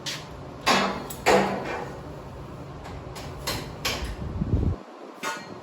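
Metal parts being handled and set in place: two loud clunks about a second in, each with a brief ring, then several lighter knocks and a short low rumble near the end.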